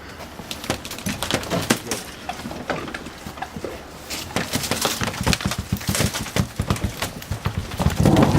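Irregular crackling, knocking and splashing of broken ice and icy water around a swamped boat's hull as it is winched up, growing busier and louder toward the end.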